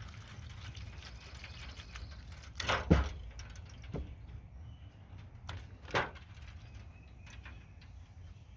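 A few sharp knocks and clinks, like hard objects being handled and set down, loudest about three seconds in and again about six seconds in, over a low steady rumble.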